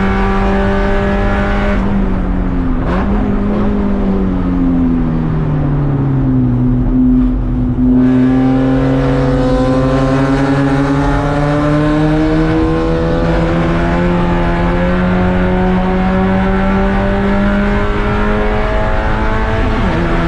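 Race car engine: it comes off the throttle about two seconds in, its pitch falling for several seconds, then it pulls back on and its pitch climbs slowly and steadily for about ten seconds before a brief dip near the end, like a gear change.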